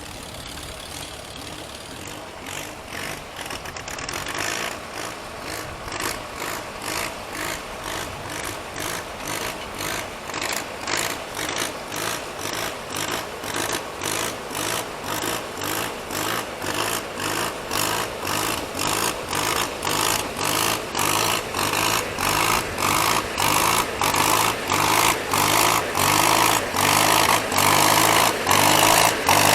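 Antique tractor engine running with a slow, even pulsing exhaust beat, about two beats a second, growing steadily louder.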